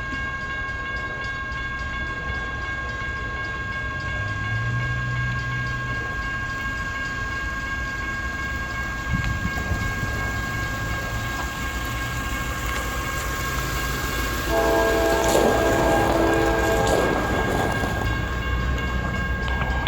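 CSX freight locomotives, a GE CW44AH and an AC60CW, approaching with a steady rumble. About three-quarters of the way in the lead locomotive's horn sounds one chord for about two and a half seconds, and it starts again at the very end.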